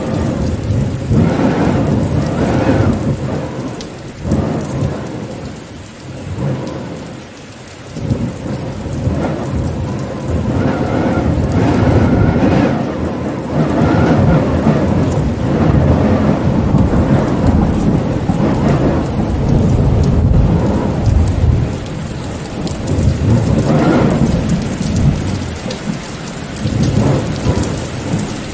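Rainstorm: heavy rain with a deep rumble that swells and eases, quietening for a few seconds early on before building again.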